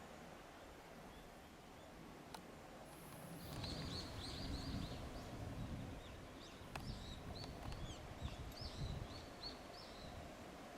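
A small bird calling in runs of short, quickly repeated high chirps, starting about a third of the way in, over a low outdoor noise background with a couple of faint clicks.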